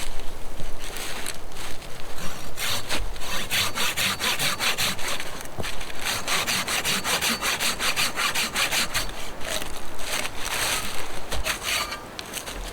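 Hand saw cutting through wood in quick, even back-and-forth strokes, stopping near the end.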